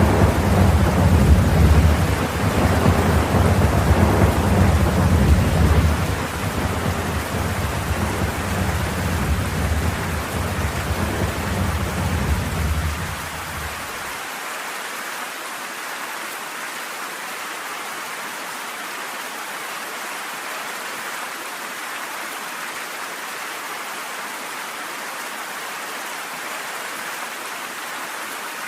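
Steady rain with a long rolling rumble of thunder. The thunder fades in steps and stops abruptly about halfway through, leaving the rain hiss alone.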